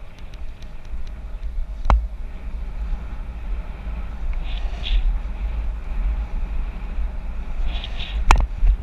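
Wind buffeting a bicycle-mounted GoPro's microphone while riding, a steady low rumble, with two sharp knocks from bumps, one about two seconds in and one near the end.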